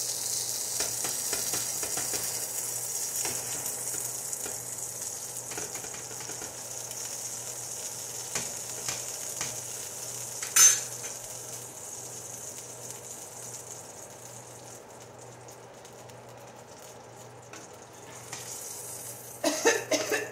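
Quesadillas of folded flour tortillas sizzling on a hot griddle pan, the sizzle fading over the first two-thirds, with light taps and scrapes of a metal spatula and one sharp clack about halfway. Near the end come a few coughs from the cook, set off by hot pepper in the filling.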